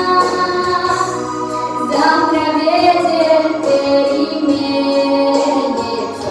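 A song: several voices singing together over instrumental backing.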